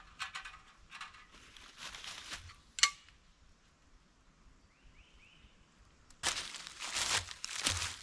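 Dry crunching and crinkling in bursts, with a single sharp click about three seconds in and louder crunching over the last two seconds.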